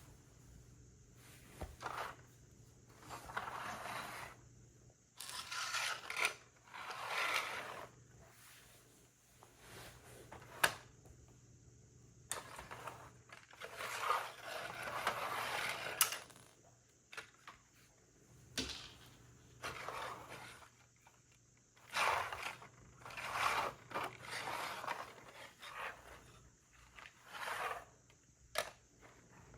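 Plastic LEGO pieces being handled during a build: irregular bursts of scraping and rustling with sharp clicks of bricks against each other.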